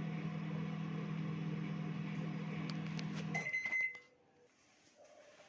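Godrej microwave oven running with a steady low hum. A few clicks come shortly before the hum cuts off about three and a half seconds in, and the oven gives a short high beep as the cycle ends.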